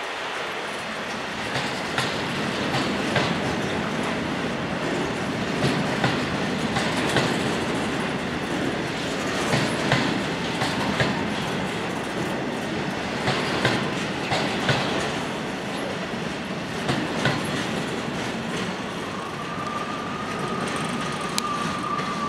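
Coal train wagons rolling past, their wheels clicking and knocking over the rail joints in a continuous rumble. A steady high wheel squeal comes in near the end.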